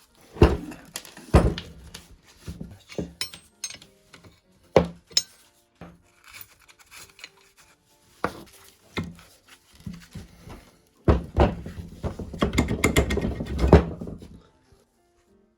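Hand work on old metal pump parts: a series of separate knocks and thunks, then a dense run of rapid knocks and rattling about eleven seconds in.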